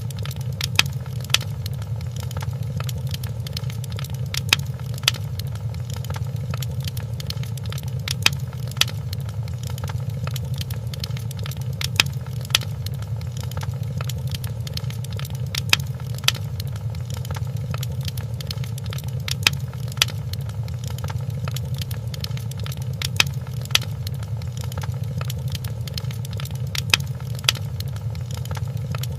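Wood fire crackling in a fireplace: a steady low rumble with sharp pops, often in pairs about half a second apart, every few seconds.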